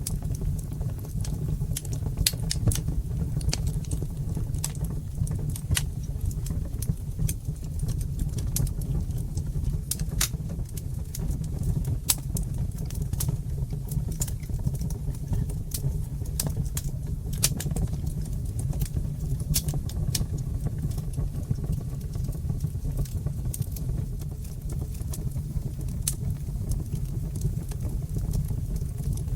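Fireplace fire crackling: frequent short, sharp pops and snaps over a steady low rumble of the flames.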